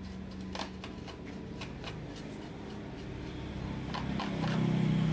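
Scattered light clicks and rattles of small hard parts being handled, over a steady low hum; a louder low hum swells in near the end.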